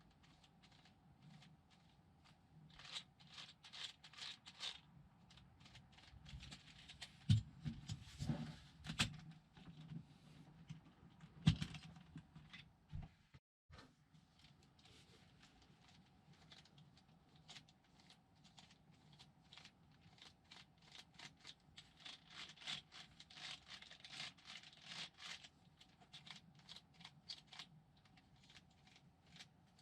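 Plastic Lego Technic parts clicking, scraping and rattling as the model car is handled and its steering worked, with two louder knocks in the first half.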